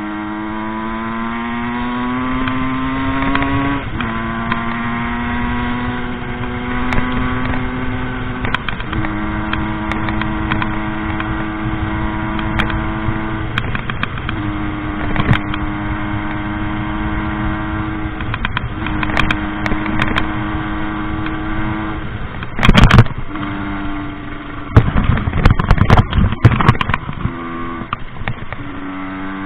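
Rieju MRT 50's small two-stroke engine being ridden. The revs climb for the first few seconds and drop at a gear change, then hold steady in stretches with brief throttle-offs in between. Near the end, several loud, rough noise bursts break in over the engine.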